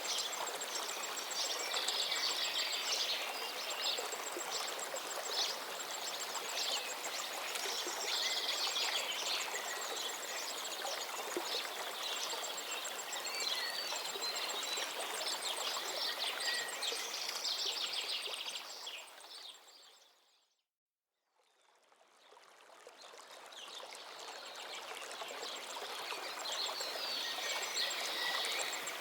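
A stream flowing steadily with several birds singing and chirping over it. About two-thirds through, the whole sound fades out to silence and then fades back in over a few seconds.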